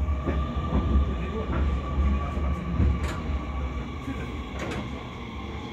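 Electric commuter train heard from inside the car as it runs slowly along the platform: a steady low rumble of wheels on rail with a motor whine that sinks slightly in pitch and grows quieter near the end, and a few light clicks.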